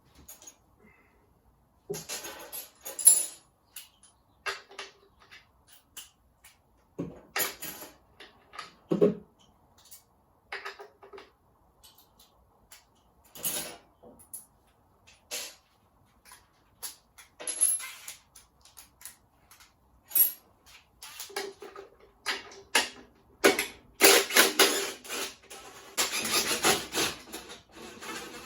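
Hand tools and metal parts clinking, knocking and rattling on and off as a panel is unfastened and taken off, with a longer stretch of rattling and scraping near the end.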